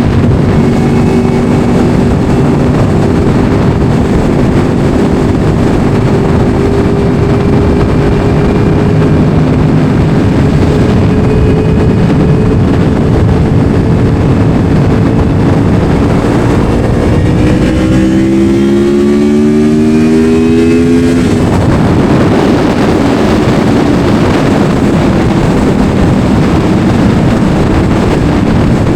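Motorcycle engine running steadily under way with a constant rush of noise around it. About 17 seconds in, the engine note climbs as it revs up for a few seconds, then breaks off and settles back to a steady run.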